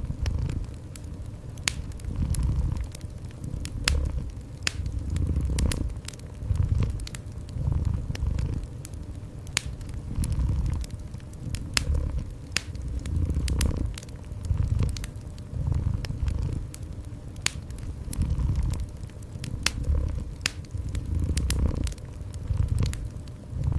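A cat purring in low swells about once a second, over a fireplace fire crackling with scattered sharp pops.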